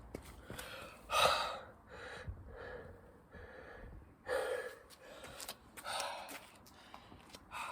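A man breathing hard and gasping, winded from exhausting burpees and chin-ups. About six heavy breaths, with the loudest about a second in and about four seconds in.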